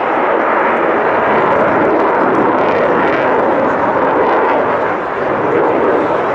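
Aircraft flying at an air show: a loud, steady rushing engine noise with no clear pitch, dipping slightly about five seconds in.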